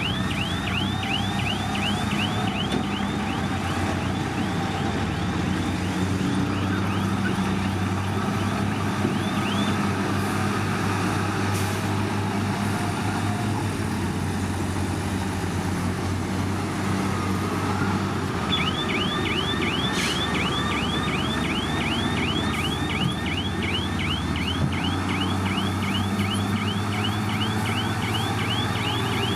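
Heavy diesel earthmoving machinery running steadily. A high, rhythmic squealing chirp repeats about three times a second, stops for roughly nine seconds in the middle, then starts again.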